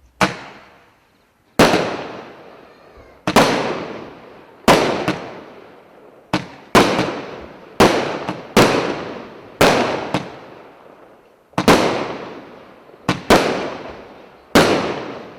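Consumer fireworks cake (a combined multi-shot battery) firing its first shots one after another: about a dozen sharp bangs, roughly one a second, a few in quick pairs, each dying away over a second or so.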